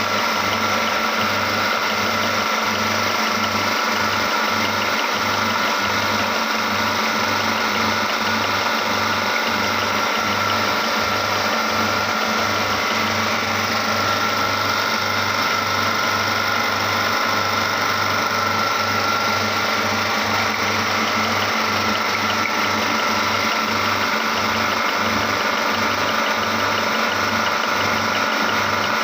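Electric meat grinder's motor running steadily with a constant hum and a high whine, grinding red rose flowers.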